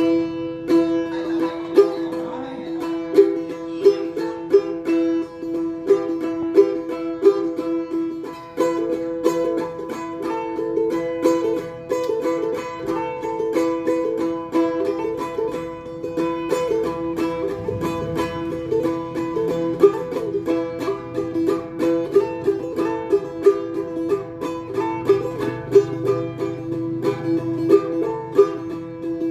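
Phin, the Isan Thai plucked lute, being played: a quick run of plucked melody notes over steady drone tones.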